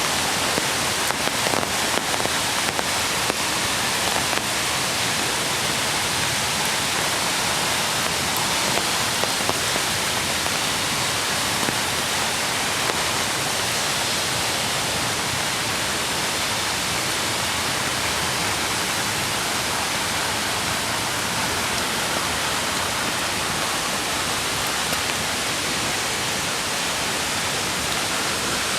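Steady rush of water from a mountain stream mixed with rain, with a few faint ticks in the first few seconds.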